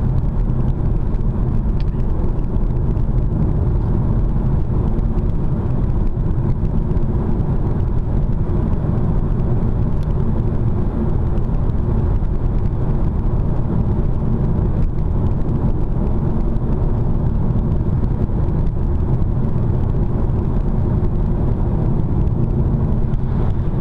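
Steady low rumble of road and tyre noise inside a moving car's cabin, unchanging throughout.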